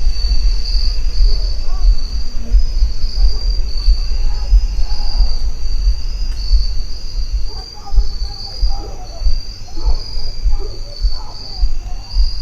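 Crickets or other insects trilling steadily in a pulsing high chorus over a low rumble, with faint, distant human yelling coming and going in the second half.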